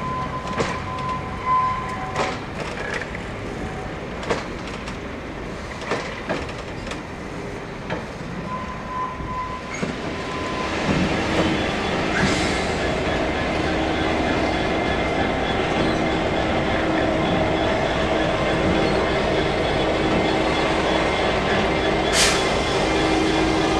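Train running on the rails: scattered clicks and knocks at first, then from about ten seconds in a louder, steady running sound with a held hum, and a short hiss near the end.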